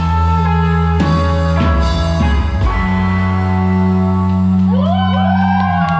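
Live rock band holding long, sustained chords over a steady bass note at the close of a song. Near the end, sliding pitches rise and fall over the held chord.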